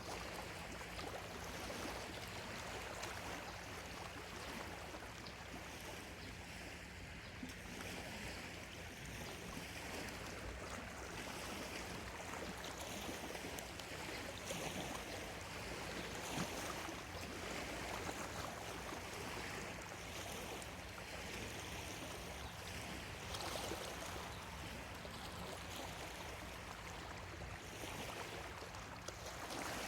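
Small waves lapping and washing on a lakeshore: a continuous, gentle wash of water with small irregular surges.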